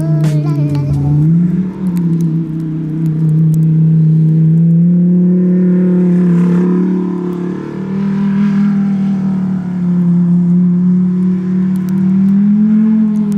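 Lamborghini Huracan Performante's V10 engine running at steady, moderate revs. Its pitch rises slightly about a second and a half in, eases back and forth through the middle, and rises again near the end.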